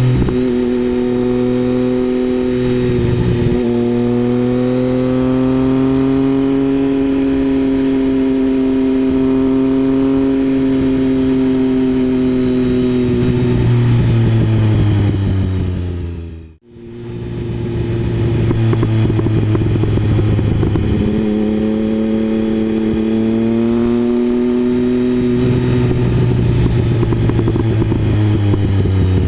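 Triumph Speed Triple 1050's inline three-cylinder engine through a Mivv aftermarket exhaust, running under way. The revs hold steady, then fall away as the throttle eases, and the sound cuts out briefly just past halfway. The revs then climb again and fall off once more near the end.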